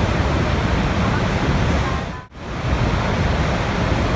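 Steady rushing water, a dense even noise. Just past halfway it dips sharply, almost to silence, for a moment, then comes straight back at the same level.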